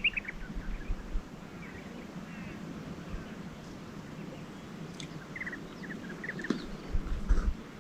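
Birds chirping in short runs of quick, high notes over a steady outdoor background, with a few low thumps at the start and again near the end.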